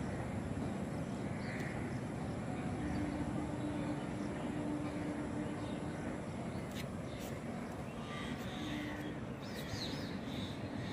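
Steady low rumble of a distant passing Indian Railways passenger train, with a low steady hum that comes in for a few seconds. Birds call now and then, more often near the end.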